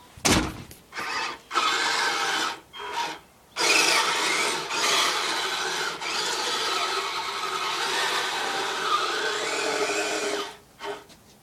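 Kyosho Blizzard radio-controlled tracked snow vehicle driving, its electric motor and geared track drive whirring in a few short throttle bursts, then running steadily for about seven seconds before stopping.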